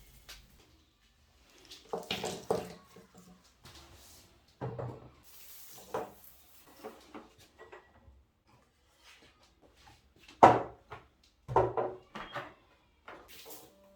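Household objects being handled and set down on a hard surface: scattered knocks and clatters with quiet gaps between, the loudest a sharp knock about ten and a half seconds in, followed by another cluster of knocks.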